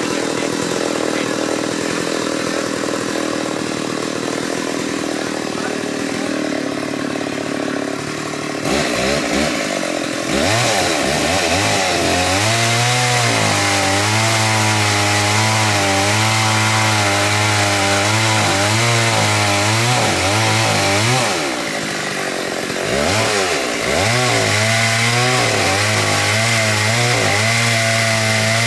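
Chainsaw cutting large xà cừ (African mahogany) trees. It runs lower and steadier at first, is revved up and down from about nine seconds in, then held at full throttle. It drops back briefly about twenty-one seconds in and revs up again.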